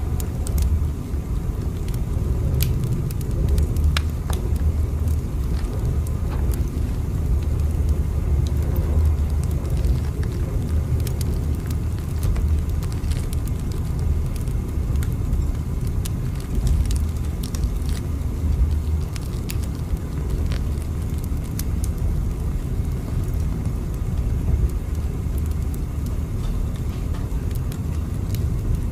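Steady low rumble of a moving train, with faint scattered clicks and crackles over it.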